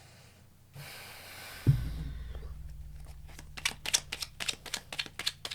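Tarot cards being handled and shuffled: a brief brushing slide, a thump about a second and a half in, then a fast run of card clicks, about six a second, in the second half.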